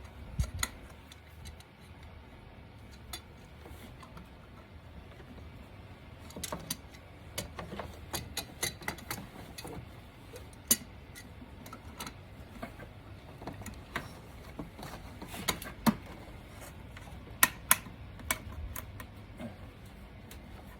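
Irregular metallic clicks and clinks of hand tools being handled and worked on the engine, with a few sharper knocks.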